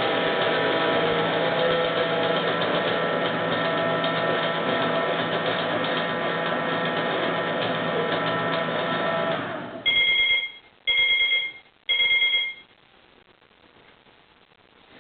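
Klein Hoover toy washing machine running dry, its small electric motor whirring steadily, then stopping about nine and a half seconds in. Three short electronic beeps follow about a second apart, the machine signalling the end of its cycle.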